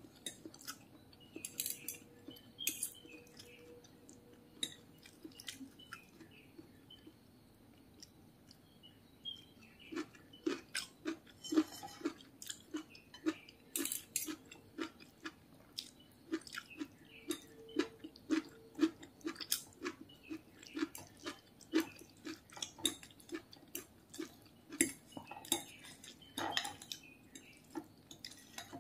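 Close-up eating sounds: a mouth chewing soft siomay, with a steady rhythm of about two chews a second from around ten seconds in. A metal spoon and fork clink and scrape on a ceramic plate throughout.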